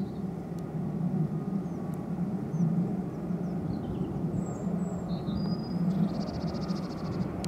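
Steady rumble of distant jet aircraft engines across the airfield, with a low hum in it. Small birds chirp briefly over it, with a quick high trill about six seconds in.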